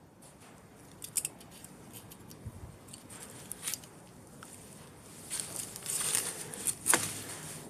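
Handling noise: a run of sharp clicks and rustling, thicker in the last third, with one loud click about seven seconds in.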